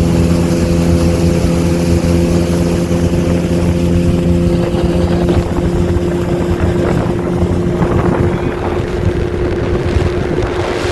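Motorboat engine running steadily at speed, with wind buffeting the microphone and water rushing past. In the second half the engine's hum thins out and the wind and water noise grows.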